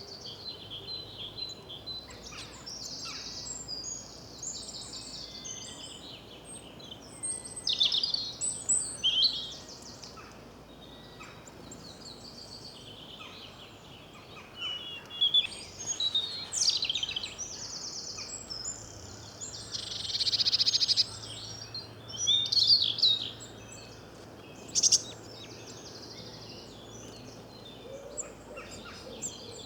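Several wild songbirds chirping and singing, their calls overlapping. Louder bursts of song come about a third of the way in, at the midpoint, and in a cluster near the end.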